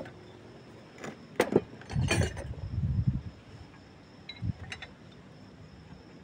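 A series of irregular metallic clinks and clunks from tools and metal parts being handled during disc brake pad work, the loudest pair about one and a half to two seconds in.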